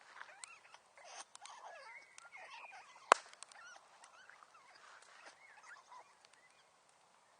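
Outdoor wood fire crackling, with scattered small pops and one sharp, loud pop about three seconds in, over faint wavering whistling tones.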